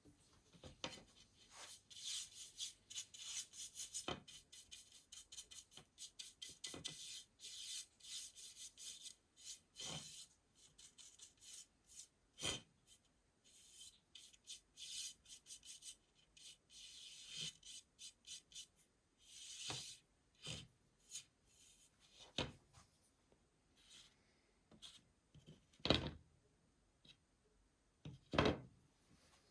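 Paintbrush stroking over a wooden baseboard: rapid rasping brush strokes, closely packed in the first half and sparser later. Two louder knocks come near the end.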